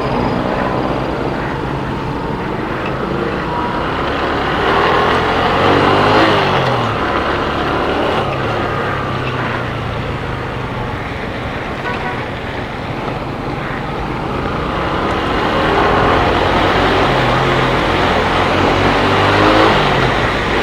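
Motorcycle engine running under way, its pitch rising and falling as the rider speeds up and slows down, over steady road and traffic noise.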